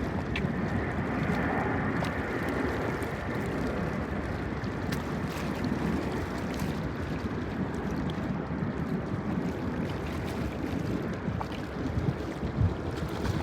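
Steady rumble of a Boeing 767 airliner's jet engines, with wind buffeting the microphone.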